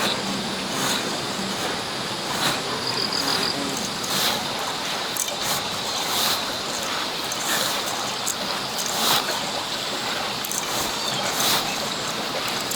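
Knife slicing pork on a cutting board: short cuts and taps at irregular intervals, about one a second, over a steady rushing background noise.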